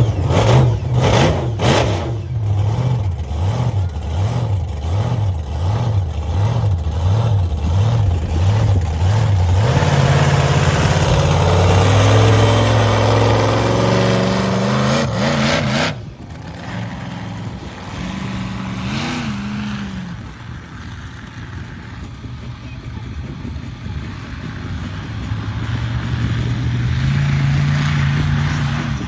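Monster truck's 9.5-litre methanol-fuelled big-block Chevy V8 running and being revved, its pitch pulsing up and down about once a second and then climbing. About halfway through, the level drops suddenly, then the engine note rises again near the end.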